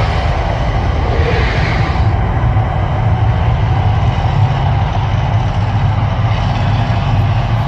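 Deep, loud, steady rumble of the Mirage volcano show, with a couple of brief hissing swells in the first two seconds.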